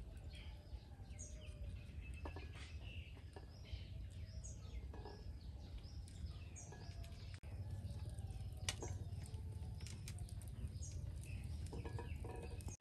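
Small birds chirping and calling over and over, with a few sharp clicks mixed in.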